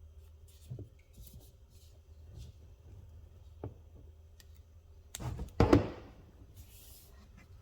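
Light knocks and clicks of things being handled, then a loud thump about five and a half seconds in, followed by a short hiss.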